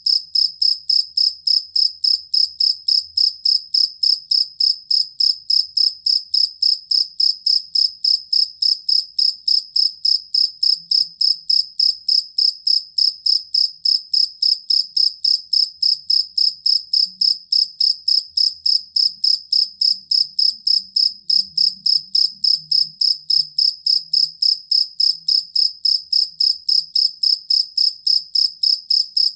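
Field cricket singing: an unbroken, even run of short, high chirps, about three a second, keeping the same pitch and pace throughout.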